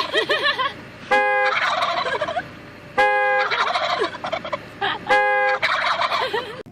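Domestic fowl calling: a steady chatter of short chirps, with three loud, held calls about two seconds apart.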